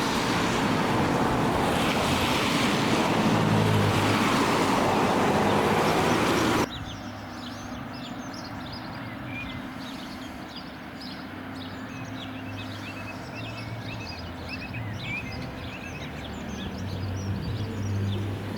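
Loud, steady rushing of the fast-flowing flooded River Parrett. About a third of the way in it cuts off suddenly to many birds chirping and singing over a low steady hum.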